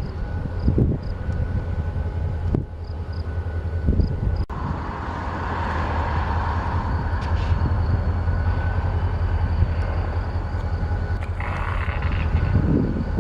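Diesel freight locomotive moving slowly through a wye, its engine giving a steady low rumble, with rolling train noise building from about four and a half seconds in.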